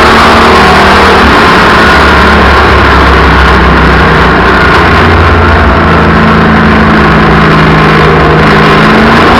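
Race car engine noise, loud and continuous, the engine pitch shifting a little as the throttle changes.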